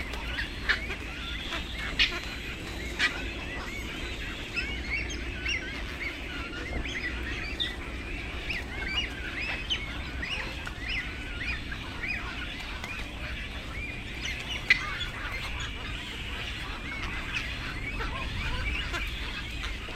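Many birds calling at once: a dense, steady chatter of short chirping calls, with a few sharp clicks, the loudest about 15 seconds in, over a low steady hum.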